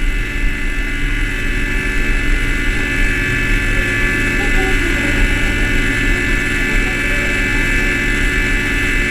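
Cable car cabin running along its rope: a steady mechanical hum and whine over a low rumble, heard from inside the enclosed cabin.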